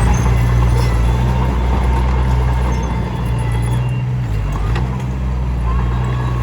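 Komatsu D21P bulldozer's diesel engine running steadily, its note dipping briefly a little past four seconds in, then recovering.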